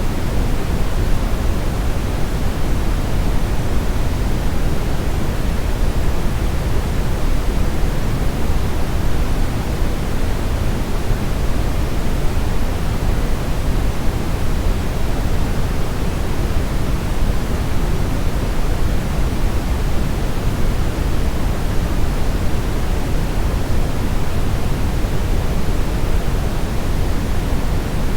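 Steady brown noise: an even, deep rushing hiss weighted toward the bass, with no changes.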